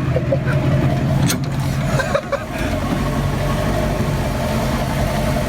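A car engine running steadily at low revs, with a couple of short knocks in the first half.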